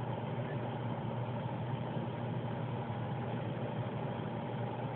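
A steady low machine hum with an even hiss over it, without change.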